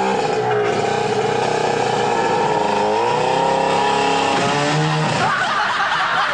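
A vehicle engine running, its pitch dipping and rising as it revs. A higher squealing sound comes in near the end.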